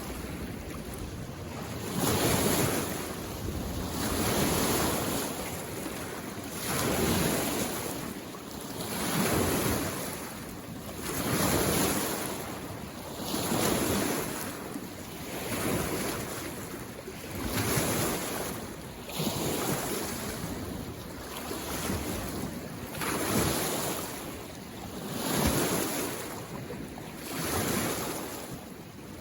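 Small waves from a mountain lake washing in on the shore, one surge about every two seconds over a steady hiss of water.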